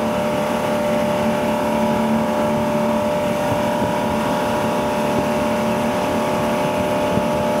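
Tow boat's engine running steadily at an unchanging pitch, with a constant rush of noise over it.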